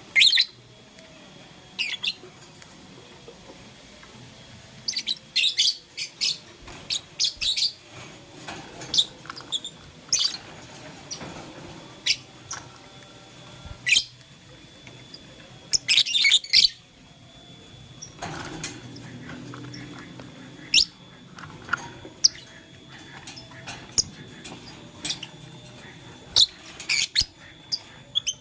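Pet lovebirds giving short, sharp chirps at irregular intervals, some in quick clusters of several calls.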